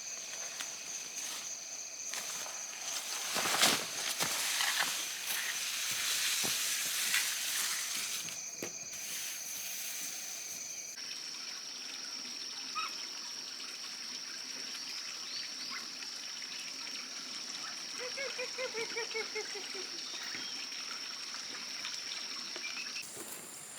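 Outdoor rural ambience with a steady, high insect buzz. A stretch of hissing, rushing noise comes a few seconds in, and a quick run of chirping notes comes near the end.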